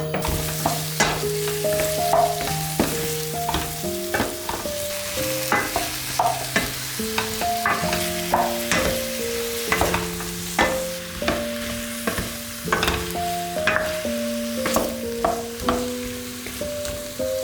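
Food frying and sizzling in a pan while being stirred, with frequent sharp clicks of a utensil against the pan. A slow melody of held notes plays alongside.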